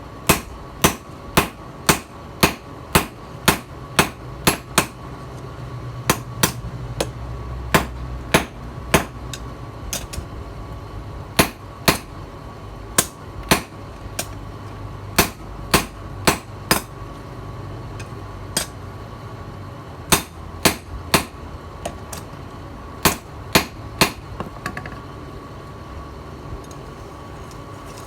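Hand hammer striking steel, forging a knife blade from a tiller blade: sharp ringing blows about two a second in runs with short pauses between, stopping a few seconds before the end, over a steady hum.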